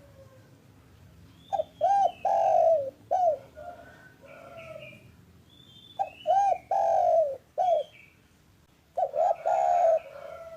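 Spotted dove (derkuku) cooing: three phrases, each a few short, clipped coos leading into a longer drawn coo, about every three to four seconds.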